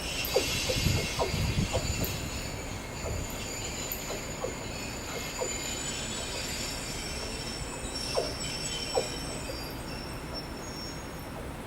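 Freight train wagons rolling past, their wheels squealing in several high, steady tones that fade near the end. Low thuds from the wheels sound in the first couple of seconds.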